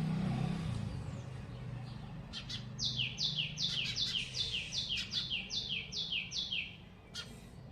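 A bird singing a fast series of about ten repeated high notes, each sliding downward, over about four seconds, with a low steady hum underneath.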